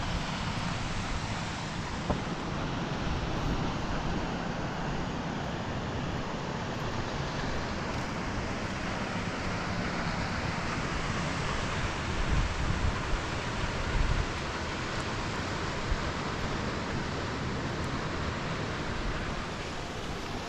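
Steady hiss of rain, with wind buffeting the microphone in uneven low rumbles.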